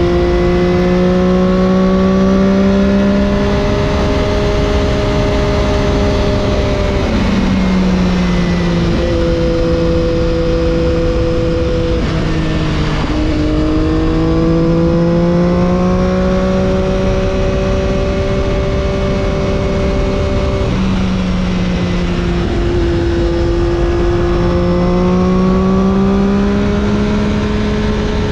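Triumph Daytona 675's inline three-cylinder engine through an Arrow exhaust, heard onboard under way: the engine note holds and climbs slowly, drops sharply twice, about a quarter and three quarters of the way through, and dips and rises again in the middle, over a steady rush of wind noise.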